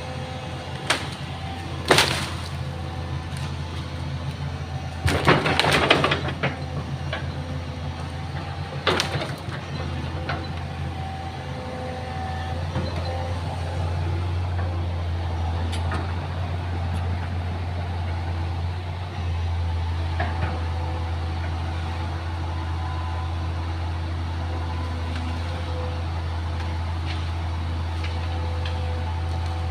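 Excavator's diesel engine running steadily, growing a little louder about halfway through. Several sharp knocks and cracks in the first ten seconds, the longest a cluster lasting about a second.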